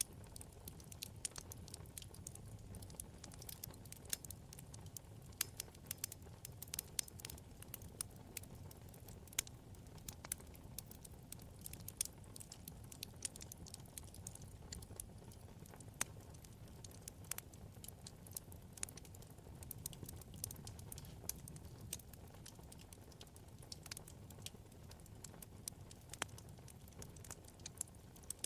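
Wood fire in a fireplace crackling, with frequent small, sharp pops at irregular intervals over a low, steady rumble of the flames.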